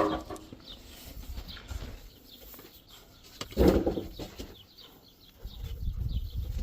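Small birds chirping repeatedly, with one louder pitched call about three and a half seconds in.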